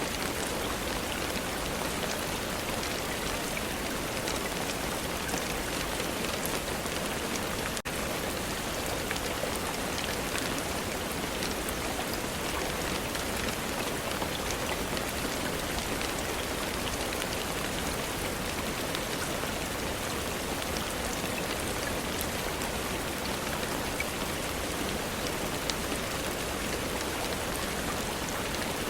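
Steady rain falling: an even hiss of rainfall with scattered individual drops ticking.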